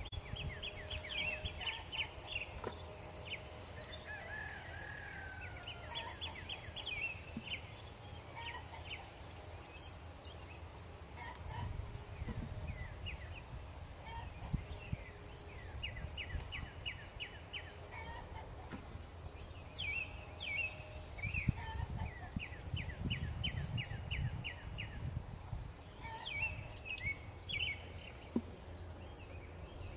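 Small birds singing in repeated rapid trills, with chickens clucking now and then, over a steady low rumble.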